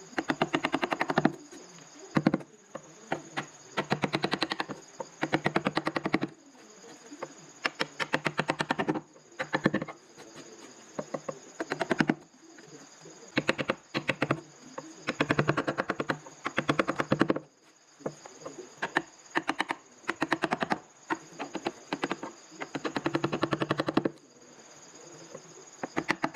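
A wood-carving tool cutting into wood in bursts of rapid clicking strokes, each run lasting one to two seconds, repeated about a dozen times with short pauses between.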